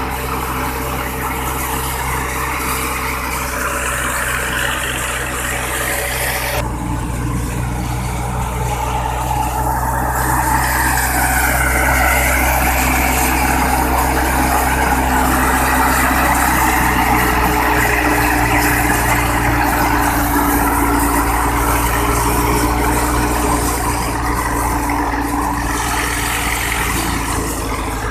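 Wheat thresher and the engine driving it running steadily, with an abrupt change in the sound about six seconds in.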